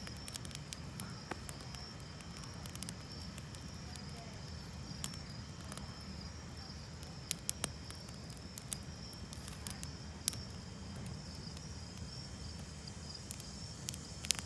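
Campfire crackling, with irregular sharp pops scattered throughout and a low rumble underneath, over a steady high-pitched chorus of insects.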